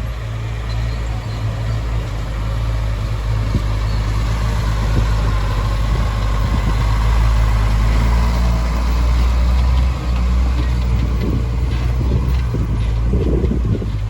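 Heavy diesel engine of a construction machine running steadily with a deep, even drone, with some clatter near the end.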